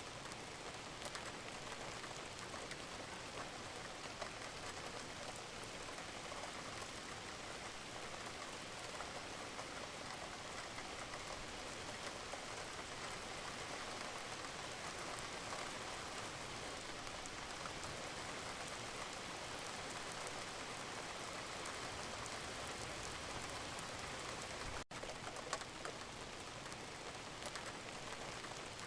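Steady rain falling: an even hiss full of small drop ticks, with a split-second break near the end.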